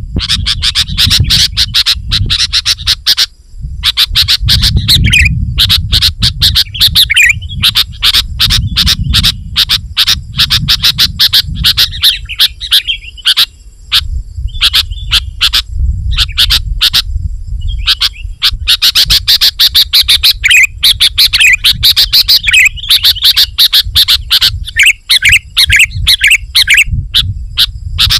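Sooty-headed bulbul (kutilang) singing loud, rapid chirping phrases in bouts with short pauses: the dense, challenging song used to lure wild bulbuls. The recording is overdriven and crackles constantly with clicks.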